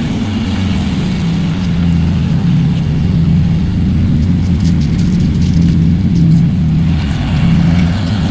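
Tractor engine running steadily with a low, even hum while towing a dead diesel pickup.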